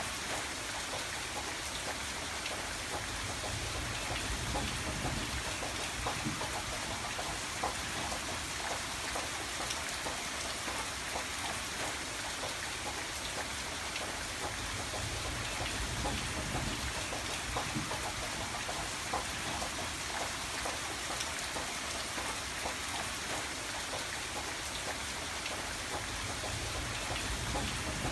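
Steady rain falling, a dense even hiss with many separate drop hits, under a low rumble that swells and fades a few times.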